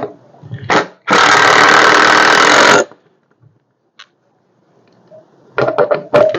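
A power tool running in one steady burst of about a second and a half, then stopping abruptly, with knocks and a short clatter of handling noise before and after.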